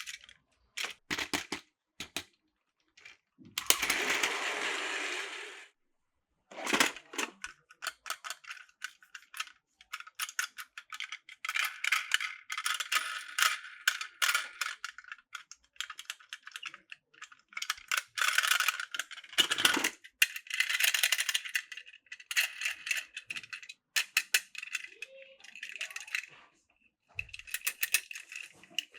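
Hard plastic Plarail track pieces and toy parts clicking and clattering as they are handled and fitted together, with a brief scraping rush about four seconds in.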